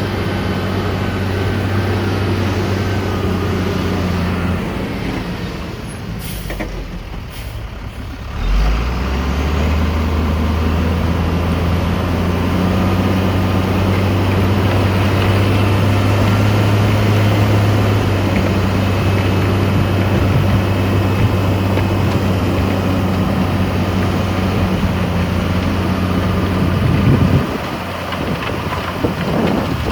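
Heavy diesel earthmoving machinery engine running under load with a steady hum. It eases off for a few seconds, picks up strongly again about eight seconds in, and drops back near the end.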